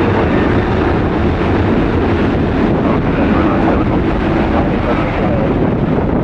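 Heavy rain and gusting wind buffeting the microphone, a loud, steady rushing noise heaviest in the low end.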